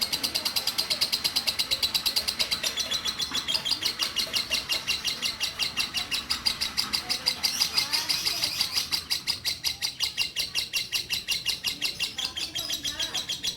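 Lovebird (Bio Green mutation) singing a long unbroken ngekek: a rapid chattering run of sharp, high-pitched notes repeated several times a second.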